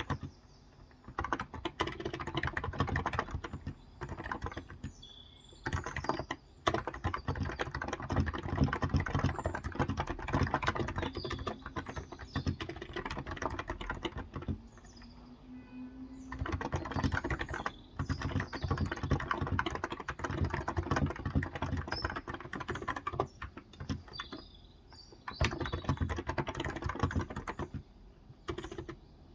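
Fast typing on a Cox Endeavor 35 g capacitive (Topre-style) tenkeyless keyboard, in bursts of rapid key clicks broken by short pauses. Birds chirp faintly in the background.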